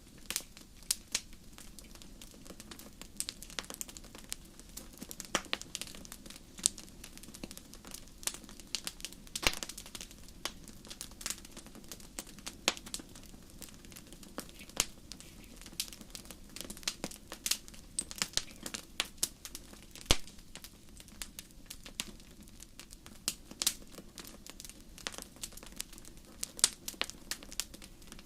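Wood campfire crackling, with irregular sharp pops coming several times a second over a steady low rush of the fire.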